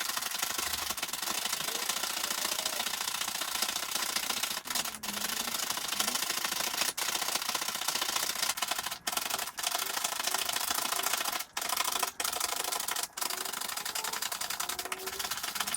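Air pump inflating a vinyl inflatable boat: a steady rush of air, broken by several brief pauses, with faint rising squeaks near the end.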